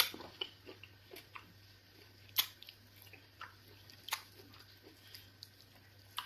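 Close-up mouth sounds of a person eating swallows of eba and fufu with egusi soup: irregular wet chewing, lip smacks and clicks, a few louder than the rest, over a faint steady low hum.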